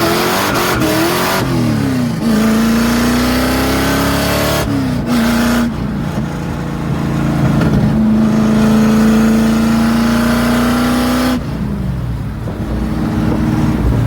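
Car engine under acceleration: its pitch climbs slowly, then drops abruptly a few times.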